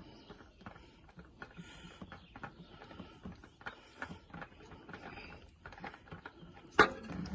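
Scattered light clicks and knocks of tools and parts being handled during oil filter removal, with one sharp, loud knock near the end.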